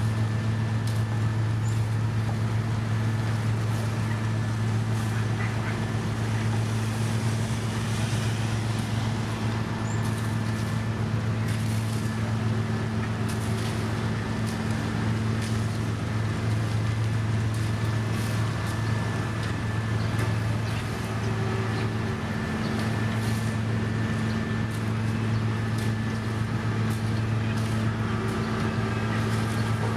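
A heavy diesel engine running steadily with a constant low hum, with scattered faint clicks and knocks over it.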